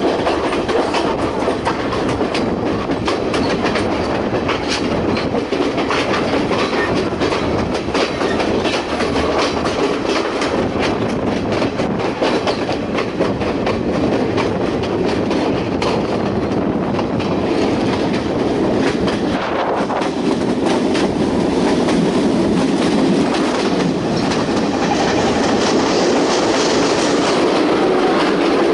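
Passenger train running along the track, heard from inside a carriage: a loud, steady rumble with wheels clattering over the rails and the car rattling throughout.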